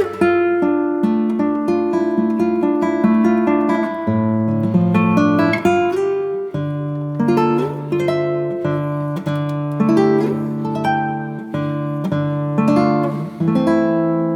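Acoustic guitar music: plucked and strummed notes in a steady, repeating pattern.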